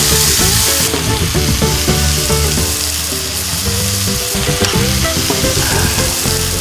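Marinated beef bulgogi with sliced peaches, onion and chillies sizzling in a hot frying pan as it is stirred and turned.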